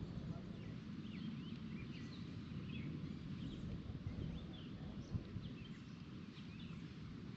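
Birds chirping and calling repeatedly, short quick notes, over a steady low rumble of wind or water noise.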